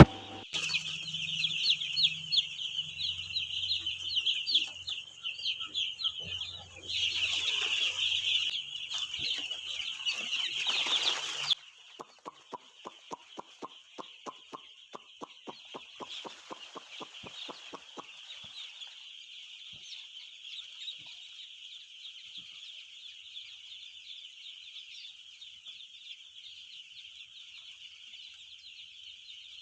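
A shed full of broiler chicks peeping continuously, many high-pitched calls overlapping. A low hum sits under the first third. A run of regular clicks, about three a second, comes in the middle.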